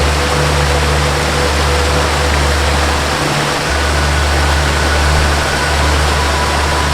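Steady rush of a waterfall, with a soft melody of long held notes underneath. A low note drops out for a moment about three seconds in and a higher note comes in soon after.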